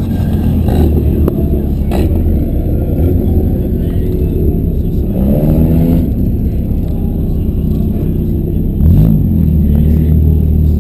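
Several demolition derby car engines revving hard, their pitch rising and falling, with a few sharp bangs about two seconds in and again near the end.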